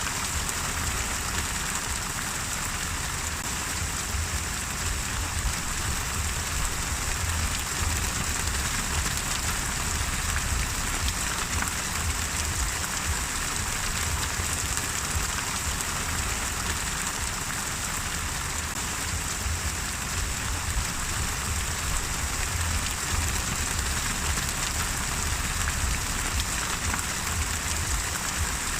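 Steady rain falling: an even hiss with a fine patter of drops and a low rumble underneath.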